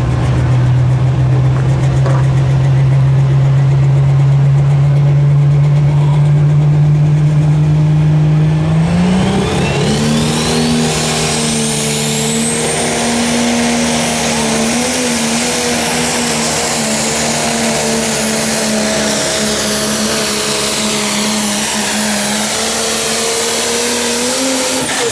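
Pro Stock pulling tractor's turbocharged diesel engine held at steady revs, then about nine seconds in it opens to full throttle for the pull. The engine note jumps up and a turbocharger whine rises quickly to a high, steady whistle, which starts to fall at the very end.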